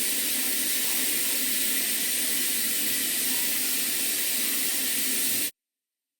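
Green onion frying in hot cooking oil, a steady sizzle that cuts off abruptly about five and a half seconds in.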